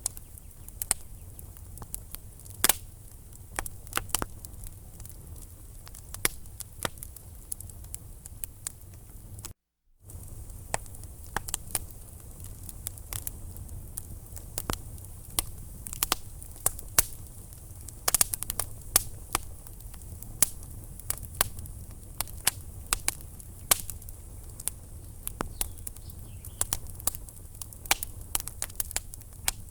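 Burning wood logs crackling: irregular sharp pops and snaps over a steady low rumble of the flames. The sound cuts out completely for a moment about ten seconds in.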